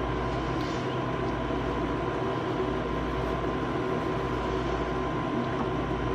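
A steady mechanical hum with a constant faint high tone, unchanging throughout.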